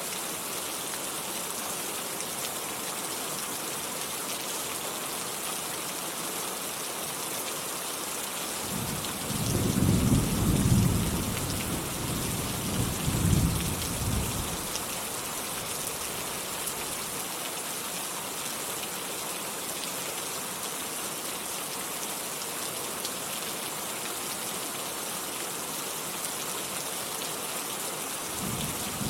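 Steady rain hissing, with a low rolling thunder rumble about a third of the way in that swells twice over some six seconds and fades, and another rumble starting at the very end.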